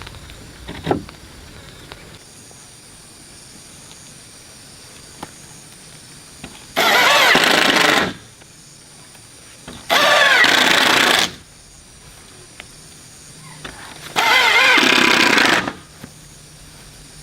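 A motorized tool running in three short bursts of about a second and a half each, its pitch wavering under load, with quiet between them.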